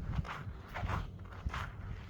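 Footsteps in snow at an even walking pace, about three steps, over a low steady rumble.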